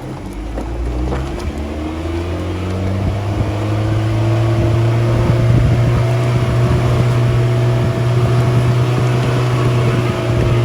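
4x4 engine running under load, its pitch rising over the first few seconds and then holding steady, with a low uneven rumble beneath it.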